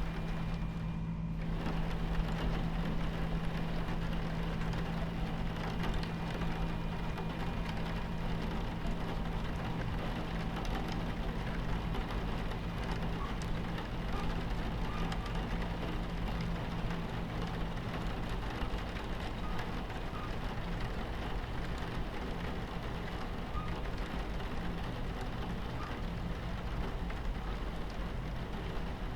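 Steady low rumble of a train running, with a hum, under the even hiss of rain on the window. The hiss thins out briefly about a second in.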